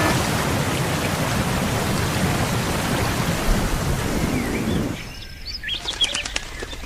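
A steady rushing noise across all pitches that drops away about five seconds in. After it, several birds chirp in short, quick calls.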